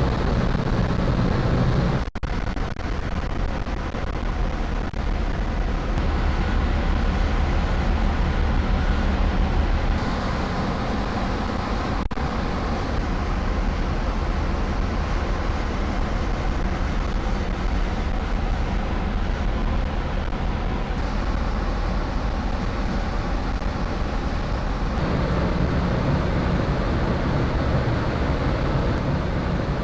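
Steady low rumble of a large car ferry's engines and machinery, mixed with wind and water noise. The balance of the noise shifts abruptly a few times.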